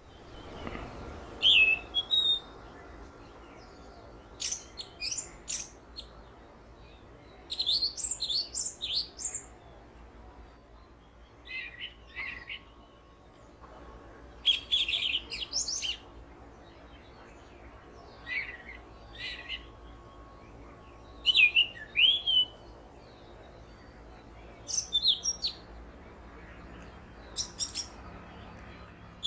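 Orange-headed thrush singing a long run of short, varied, high phrases, one every two to three seconds with pauses between. Its own calls are mixed with mimicry of other birds' calls, some phrases louder and some softer.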